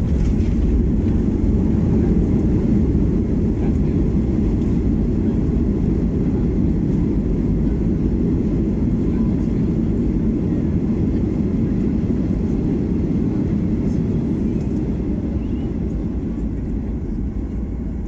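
Cabin rumble of a Boeing 737 MAX 8 slowing on its landing roll. A steady low roar gradually eases off toward the end.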